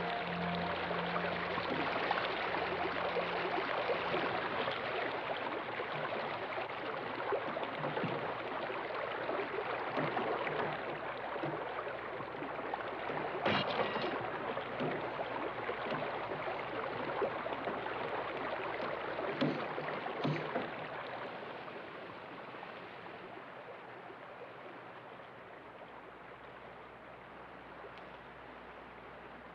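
Rushing river water, a steady rush, with a few sharp knocks around the middle. It grows quieter over the last several seconds.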